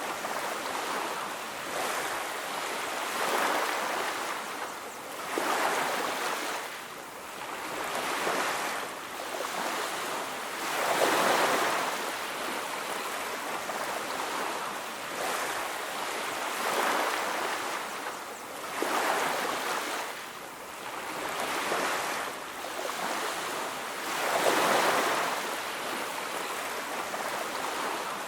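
Ocean surf: waves breaking and washing up a beach, the rushing noise swelling and fading every few seconds, the loudest swells about eleven seconds in and near the end.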